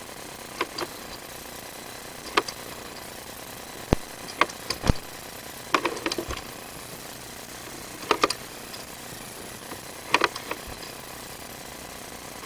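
Irregular sharp clicks and knocks, one or a short cluster every second or two, from a sewer inspection camera and its push cable being fed along a drain pipe.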